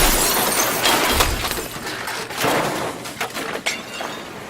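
A crash of shattering glass that starts suddenly and tails off over several seconds, with further clatter as pieces fall.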